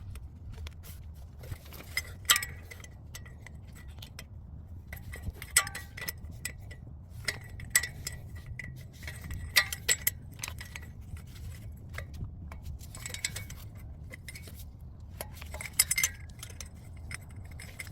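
Irregular metallic clinks and taps of a steel wrench and socket working the 12 mm exhaust header nuts loose, some ringing briefly, over a low steady hum.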